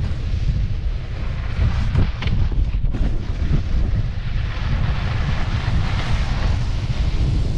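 Strong wind buffeting a GoPro's microphone: a heavy, gusting rumble with a rushing hiss over it.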